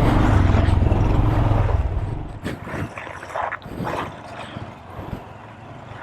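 Mini bike engine running close by for about two seconds, then dropping away, leaving quieter scattered knocks and clicks.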